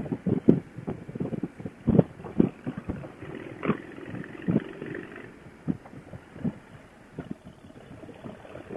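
Motorcycle riding sound through a Bluetooth helmet-intercom headset: irregular low thumps and rumble from wind buffeting the helmet microphone, with engine drone underneath, all in the intercom's narrow, muffled sound.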